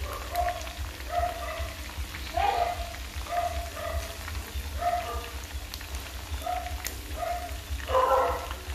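Pieces of field rat frying in hot oil with lemongrass and chili in a pan, a steady crackling sizzle, with a soft background melody of short repeated notes over it and a single light click near the end.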